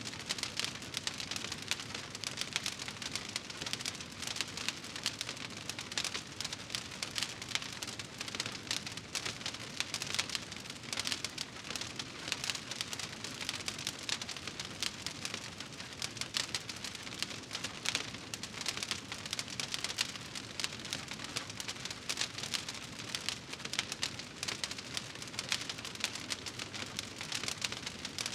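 Wood fire in a fireplace crackling steadily, a dense run of small pops and snaps.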